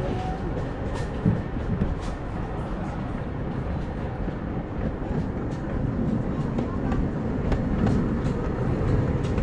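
Miniature steam railway train running on its track: a steady rumble of the cars with scattered clicks from the wheels over the rail joints.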